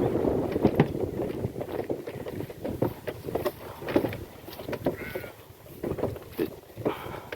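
Goat-drawn cart on the move over rough ground: irregular knocking and clattering of hooves and the cart. A brief faint call sounds about five seconds in.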